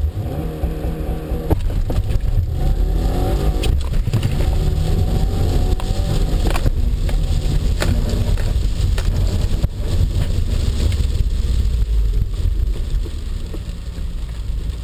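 2017 Subaru WRX's turbocharged 2.0-litre flat-four accelerating hard from a launch-control start on a wet road. The engine note climbs repeatedly with short breaks at the gear changes. The launch is violent, and the all-wheel drive spins its wheels off the line and again on the 1-2 shift.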